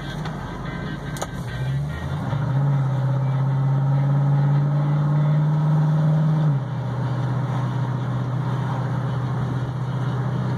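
1967 Ford Mustang engine pulling under throttle from inside the cabin: the note climbs slightly about two seconds in, then holds loud and steady for about four seconds. It drops off suddenly as the throttle is let up and settles into a quieter steady cruise.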